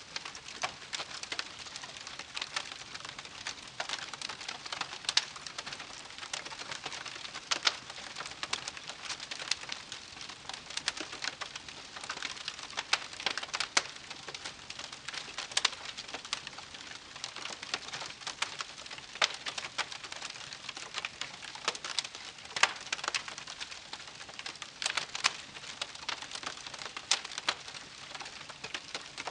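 Wood campfire crackling: irregular sharp pops and snaps, several a second, over a soft steady hiss.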